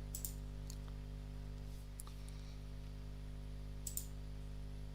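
A few sharp computer mouse clicks, spaced irregularly, two of them close together near the end, over a steady low electrical hum.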